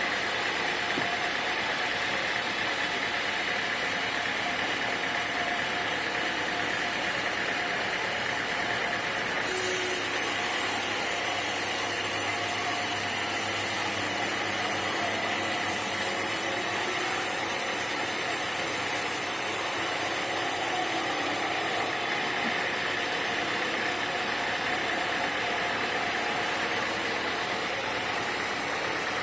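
Sawmill machinery running steadily with an engine-like drone. A high hiss comes in suddenly about a third of the way through and stops about three quarters through.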